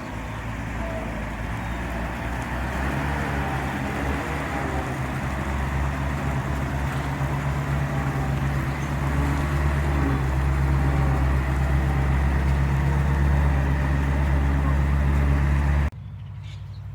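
1950 Chevrolet COE 5400 truck's engine running steadily and growing louder. It cuts off suddenly near the end, leaving a quieter sound.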